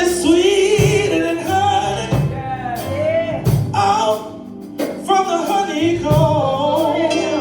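Live gospel praise music: a singer holding long, wavering notes over a band with drum hits and a steady bass line.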